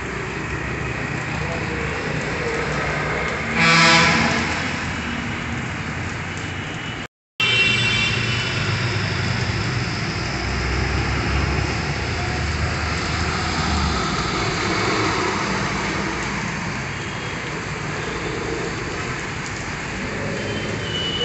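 Heavy rain pouring on a wet road while traffic passes, with tyres swishing through water and engines running. A vehicle horn sounds loudly about four seconds in. The sound cuts out briefly about seven seconds in.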